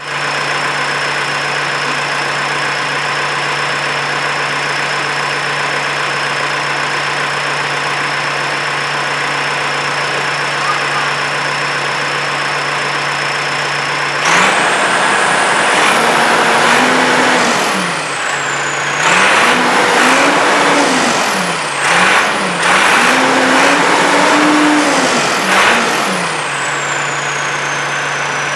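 Massey Ferguson 3075 tractor's turbocharged Perkins diesel idling with a steady high turbo whistle, then revved several times about halfway in, the engine note and turbo whistle rising and falling with each rev. Near the end it drops back to idle while the whistle winds down.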